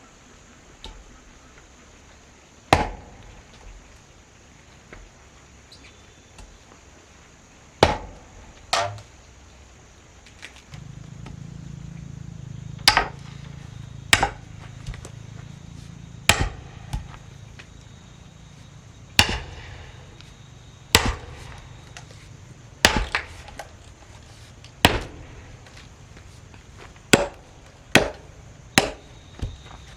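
An axe chopping wood: about a dozen sharp, irregular strikes, some in quick pairs. A low steady hum comes in about a third of the way through and runs on under the strikes.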